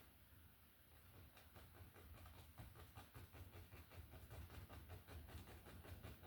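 Faint, quick taps and scratches of a paintbrush dabbing against canvas, several strokes a second, starting about a second in, over a low steady hum.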